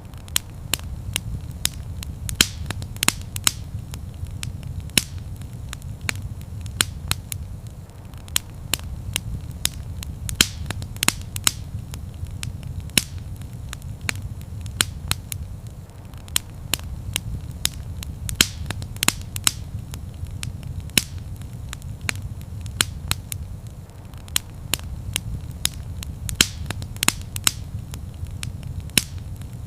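Wood fire crackling and popping, with many sharp irregular pops a second over a steady low rumble of the flames.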